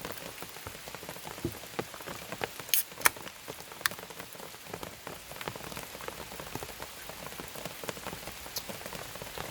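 Rain falling steadily on a tent, many small drop strikes over an even hiss, with a few sharper clicks about three seconds in.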